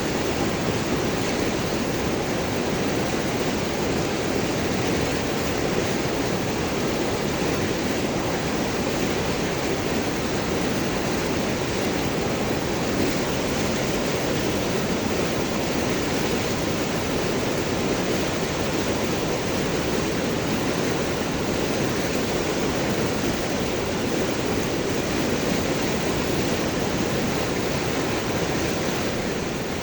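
River water rushing and gurgling over large rocks, a steady dense wash with no breaks.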